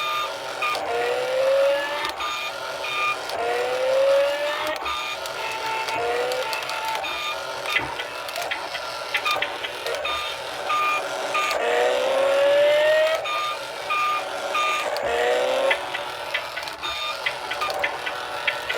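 Electronic beeps and sound effects: a rising tone repeated about every two seconds over short, evenly spaced beeps, with scattered clicks.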